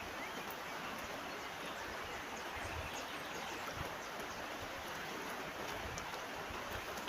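River water flowing, a steady even rushing, with a few faint high bird chirps about two and a half seconds in.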